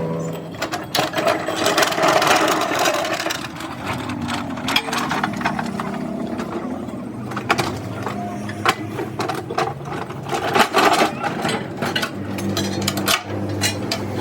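Irregular knocks, clanks and scraping from hand work on a truck's rear axle housing.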